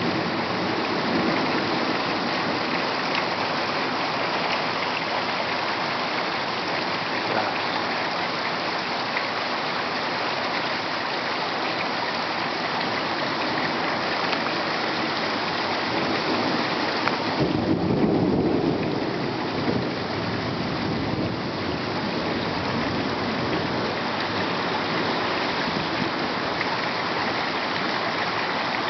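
Heavy rain pouring steadily in a thunderstorm, with a clap of thunder rumbling for a couple of seconds about two-thirds of the way through.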